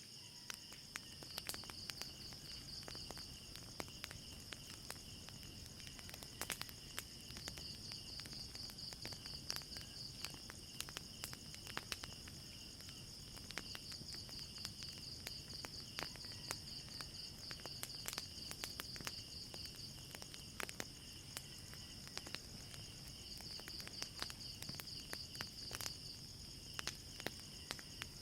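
Night insects, crickets, trilling steadily: a high pulsing trill over a lower, fainter one. Sharp irregular crackles and pops of a burning wood fire run through it.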